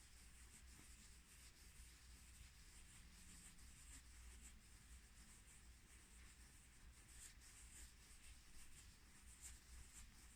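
Faint ASMR hand sounds: soft rubbing and scratching, made of a run of quiet crackly strokes.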